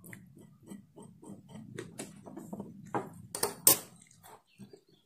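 Close-up eating sounds: a person biting into and chewing a soft fresh popiah roll, a string of small wet mouth clicks a few per second, with a couple of louder ones about three and a half seconds in, over a faint low steady hum.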